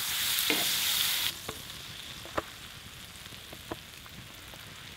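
Butter sizzling on a hot griddle as slices of rye bread are laid in to fry. The sizzle is loud for about the first second, then settles to a quieter steady hiss with a few sharp clicks.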